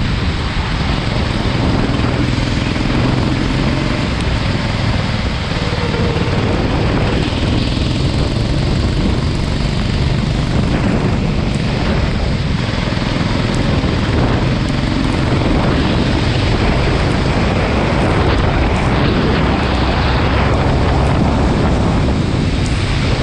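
Go-kart engine running on track, with heavy wind noise rushing over the onboard microphone and water hiss from the wet track surface, steady throughout.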